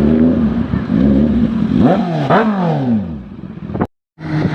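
Sport motorcycle engine running, then revved in two quick blips about two seconds in, its pitch sweeping up and falling back each time. The sound then fades and cuts out briefly near the end.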